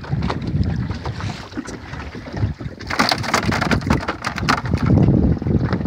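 Wind buffeting the microphone aboard a small boat, an uneven low rumble, with a burst of rustling and clattering about three seconds in that lasts over a second.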